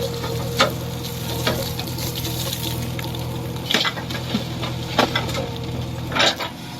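Diesel engine of a backhoe loader and tractor running steadily, with a hiss over it and a handful of sharp clatters a second or more apart.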